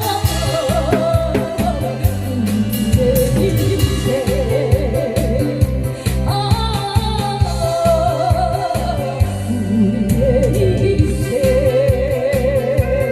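Singing with heavy vibrato over an amplified backing track with a steady beat.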